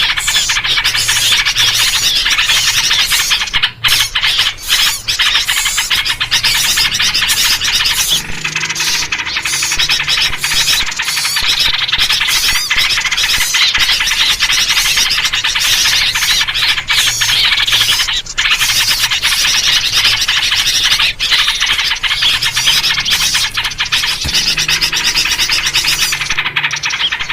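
Loud, dense chatter of many small songbirds chirping and calling at once, without a break. It is a noisy-bird lure recording built around yellow-vented bulbul (trucuk) calls.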